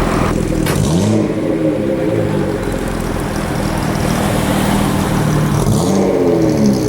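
Car engine accelerating: its pitch rises about a second in, holds steady, then rises again near the end.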